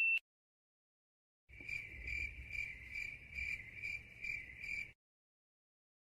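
Crickets chirping in an even rhythm, about eight chirps at two to three a second, starting after a short silence and cutting off cleanly: the stock cricket sound effect used for an awkward silence.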